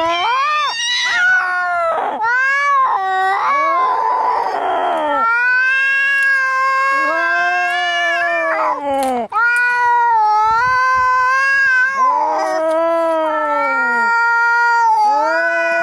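Angry cats yowling in a fight: long, drawn-out wavering caterwauls, one after another, with a harsh, rough stretch about four seconds in.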